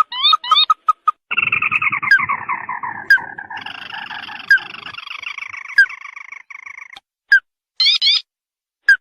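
Crake (burung tikusan) calls played back as a bird lure: a quick run of short upswept notes, then a long descending trill of rapid notes lasting about six seconds, followed by short bursts of notes near the end.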